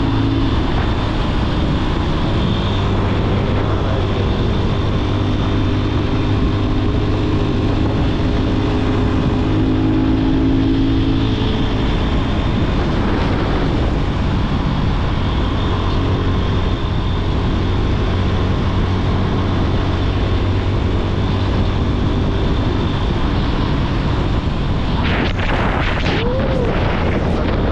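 Yamaha FZ25's single-cylinder engine running steadily while the motorcycle is ridden, with a few brief sharp noises near the end.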